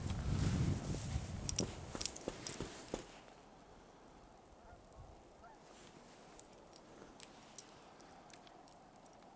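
Footsteps crunching through snow with a small metal jingle, like dog collar tags, for about the first three seconds, then mostly quiet with a few faint scattered clicks and jingles.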